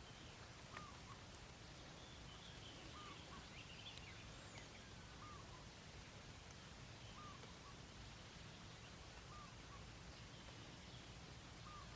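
Near silence: faint outdoor ambience with a distant bird repeating a short call about every two seconds, and a few faint higher chirps a few seconds in.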